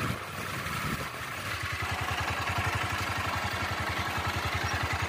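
Bajaj Avenger 220's single-cylinder engine running while the bike is ridden, settling about a second and a half in into an even, low, rapid pulsing, with wind noise over it.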